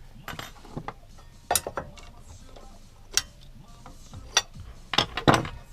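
Metal clicks and clinks of brake caliper parts and pads being handled: about eight sharp knocks at irregular intervals, the loudest cluster near the end.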